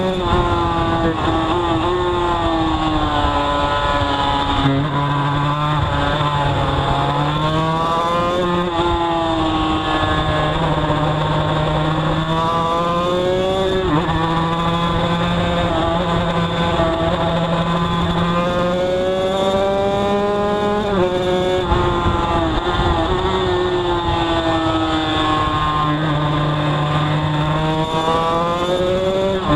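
Two-stroke racing motorcycle engine heard from a camera mounted on the bike at race pace, its revs climbing and falling again and again as the rider works through the gears and corners.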